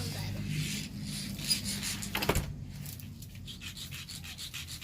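A rock being scraped back and forth on concrete, a rough rasping rub in many short strokes that grow fainter after about three seconds.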